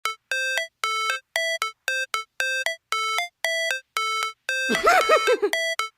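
Synthesized electronic beeps in a repeating two-note figure, a lower tone stepping up to a higher one, about twice a second. A warbling, wavering tone cuts in briefly about five seconds in.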